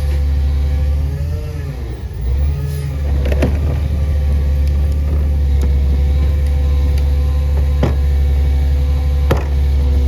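CNG Peterbilt garbage truck's engine running with a steady low drone; its pitch sags and comes back up about two seconds in. Three sharp knocks sound later on.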